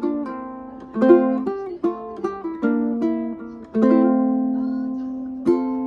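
Ukulele playing a plucked melody over chords. Chords are struck about a second in, near four seconds and near the end, each left ringing and fading.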